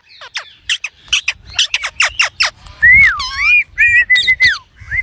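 Green parrot calling: a quick run of short downward chirps for about two and a half seconds, then several longer whistled notes that rise and fall.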